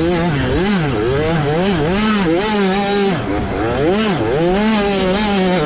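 A 65cc two-stroke motocross bike's engine revving hard, its pitch rising and dropping over and over as the throttle is opened and shut through a race lap.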